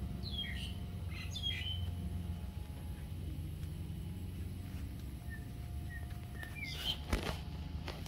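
Birds chirping in short bursts of calls, twice in the first two seconds and again about seven seconds in, over a steady low background rumble, with a single sharp click near the end.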